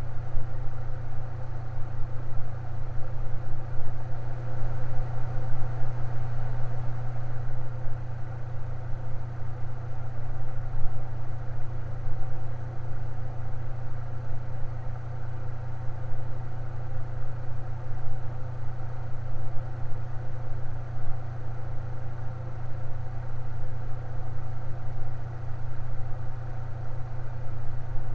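Electric fan running steadily, its motor giving a constant low hum with fainter higher tones above it.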